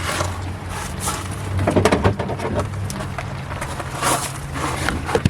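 Rain pattering steadily, with scattered light knocks and clicks and a steady low hum underneath.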